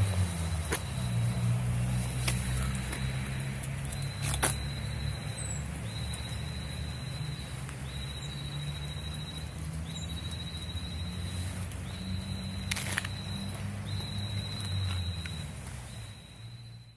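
Outdoor ambience: a steady low rumble under a thin, high-pitched trill that repeats about once a second, with a few sharp clicks. It fades out at the very end.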